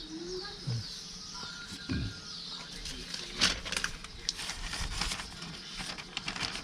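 Birds chirping faintly in the background, with a few scattered clicks and a brief rustle about three and a half seconds in.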